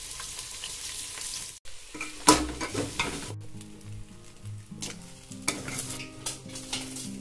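Chicken pieces and onions sizzling in hot oil in an aluminium pot, as a steady hiss. After a cut about a second and a half in, a metal spoon stirs and scrapes the pot in scattered clanks, with background music coming in.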